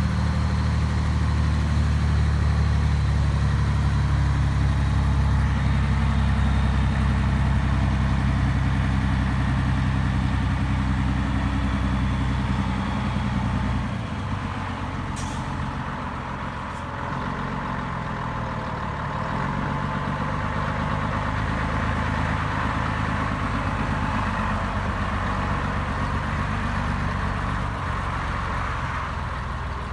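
Scania 113H truck's six-cylinder diesel engine running steadily at idle. About halfway through its low rumble drops in level, and two short sharp hisses or clicks follow a few seconds apart.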